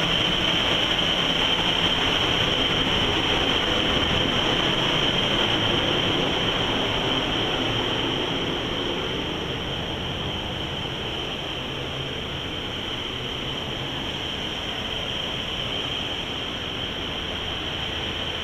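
Steady drone of a motor yacht under way: engine rumble and rushing water, with a steady high whine over it. It eases off slightly about halfway through.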